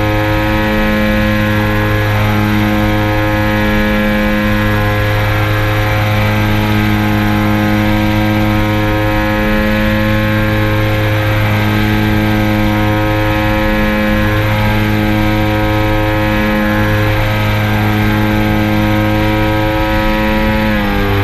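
Quadcopter drone's electric motors and propellers running with a steady whine, the pitch dipping briefly and coming back up near the end.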